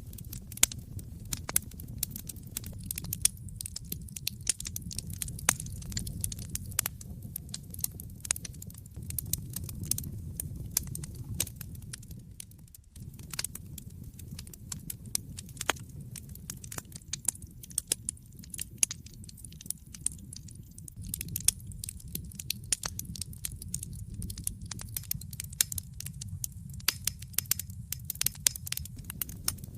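Wood fire in a fireplace crackling: frequent irregular sharp pops and snaps over a steady low rumble of the flames, which dips briefly about halfway through.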